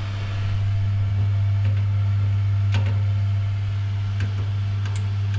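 Electric fireplace's fan heater running with a loud, steady low hum. A few short clicks sound over it.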